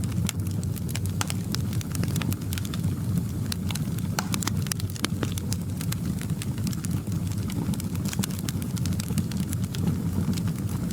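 Wood fire crackling in a fireplace: frequent irregular pops and snaps over a steady low rumble of the flames.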